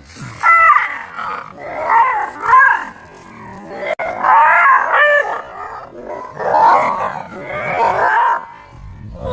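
A dog barking, growling and howling in about five drawn-out, pitch-bending calls with short pauses between them.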